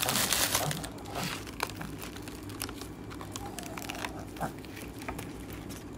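Chewing a mouthful of bánh mì, with scattered small crackles and clicks, a little louder in the first second.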